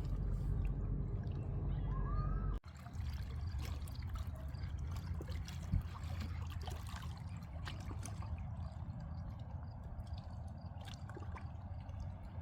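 Riverside outdoor ambience: a steady low rush, with a few faint bird chirps and scattered light clicks. The sound drops out for an instant about two and a half seconds in, then carries on.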